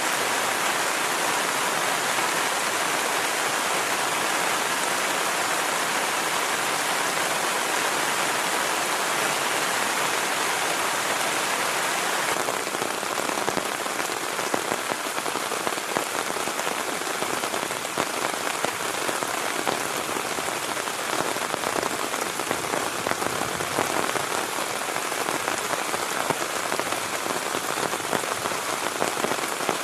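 Heavy rain falling steadily. About twelve seconds in, the even rush gives way to a closer, uneven patter of separate drops.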